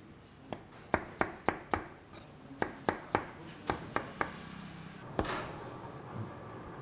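Knife chopping food on a cutting board: sharp strikes in quick runs of three or four, with short pauses between runs and a brief scraping sound about five seconds in.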